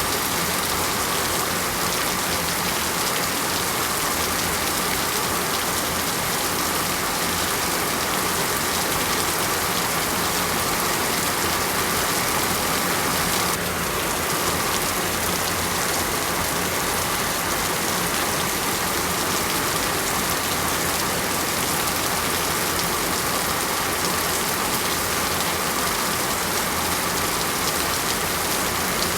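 Heavy rain falling steadily, a dense even hiss of rain on surfaces, with a slight momentary dip about halfway through.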